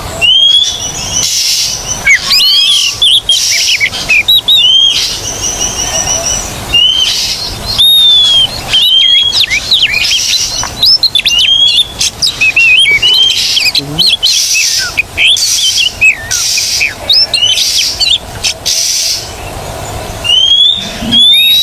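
Oriental magpie-robin (kacer) singing loudly and without pause: repeated arched, whistled notes broken up by harsh, scratchy chatter.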